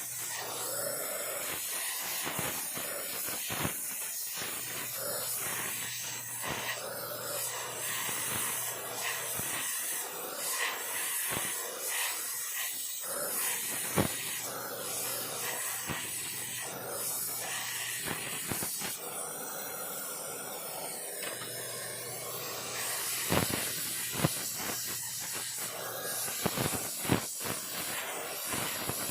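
Oxy-acetylene welding torch flame hissing steadily, with scattered sharp clicks.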